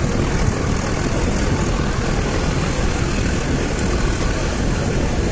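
Nilgiri Mountain Railway toy train running along the track, a steady rumble of the moving coach heard from on board.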